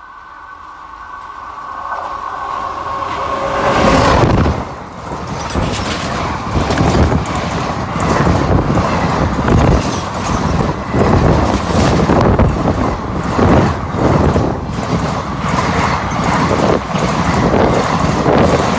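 Nethravathi Express passenger train passing at speed: a steady two-tone horn sounds as the locomotive approaches, growing louder. About four seconds in the locomotive goes by with a sudden loud rush, and the coaches follow with a rhythmic clatter of wheels over the rail joints.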